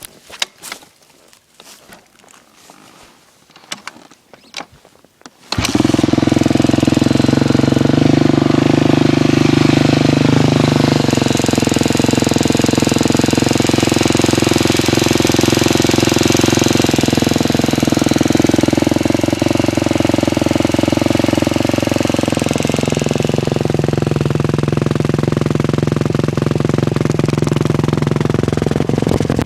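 A few light knocks, then about five seconds in the single-cylinder four-stroke engine of a 2006 KTM 250 SX-F dirt bike catches and runs at idle, its revs drifting slightly up and down. It has a clicking noise that the owner puts down to the timing chain tensioner.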